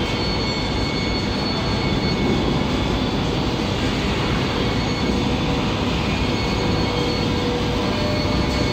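TGV inOui double-deck high-speed train rolling along the platform: a steady rumble and whir of its wheels and traction equipment, echoing in the enclosed underground station.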